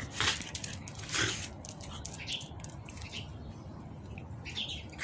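Dog mouthing and chewing its toy after a catch: scattered short clicks, crunches and brief chirp-like squeaks.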